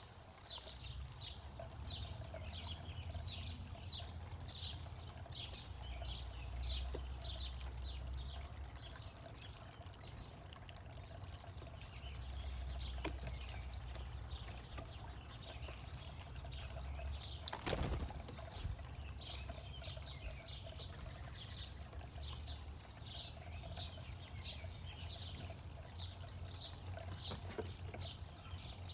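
A small bird chirping over and over, short falling chirps about two a second, with a low rumble underneath. A single sharp knock about eighteen seconds in.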